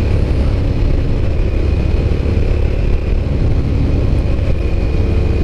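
Suzuki SV650S V-twin engine running steadily at cruising speed under a heavy rush of wind over the rider's microphone, with a faint steady high whine above it.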